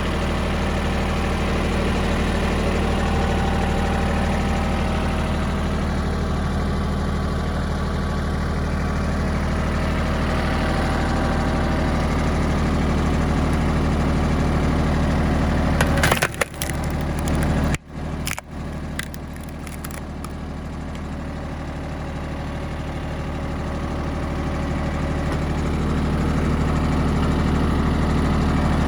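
Yanmar YM1820D tractor's three-cylinder diesel running steadily, driving a hydraulic log splitter. About sixteen seconds in, a log cracks and splits apart in a few sharp cracks over about two seconds.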